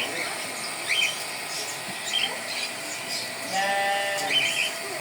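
A bird giving short, repeated chirps about once a second, with one longer, steady call a little after halfway.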